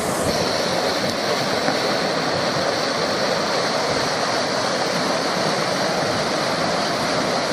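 Whitewater rapids of a kayak course rushing steadily.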